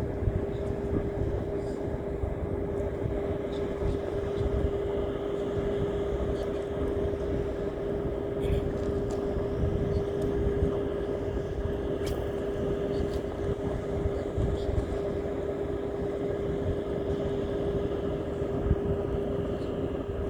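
A steady, unchanging motor drone at one pitch over low rumbling noise.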